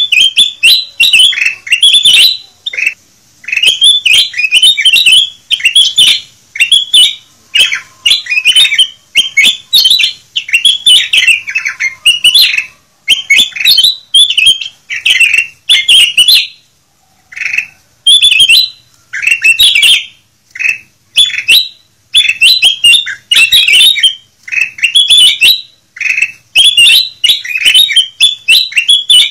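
Kutilang emas (bulbul) singing, a run of quick, loud chirping phrases one after another, broken by a short pause about halfway through.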